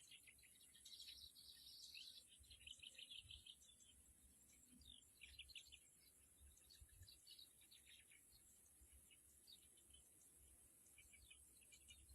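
Faint bird chirps and twittering, a dense run of quick calls in the first few seconds, then scattered chirps, over a steady high-pitched hiss.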